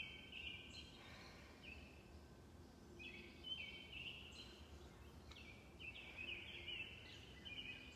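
Songbirds singing faintly: three short phrases of high chirping notes a couple of seconds apart, over quiet outdoor background noise.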